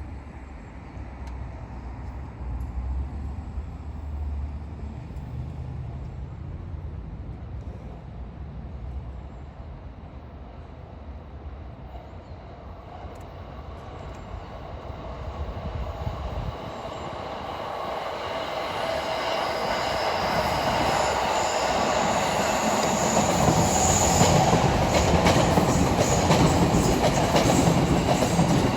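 The Holiday Rapid Kamakura train approaches and passes over a level crossing. The rumble grows steadily louder from about two-thirds of the way in. It ends with wheels clicking rhythmically over the rail joints and a high metallic whine.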